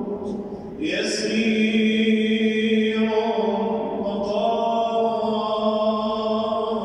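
A voice chanting an Arabic supplication in a melodic, sustained style, holding long notes; the voice drops away briefly and comes back in just under a second in.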